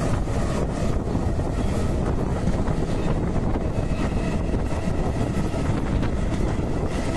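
Electric local train running at speed on open track: a steady rumble of wheels on rails, with wind buffeting the microphone held out at the open door.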